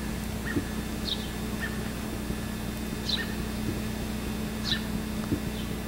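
A bird calling: short, high chirps that fall in pitch, repeating every second or two, over a steady low hum.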